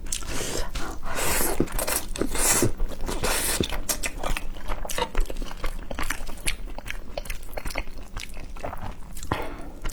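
Someone slurping and chewing instant noodles: several hissing slurps in the first few seconds and another near the end, with wet mouth clicks of chewing between them.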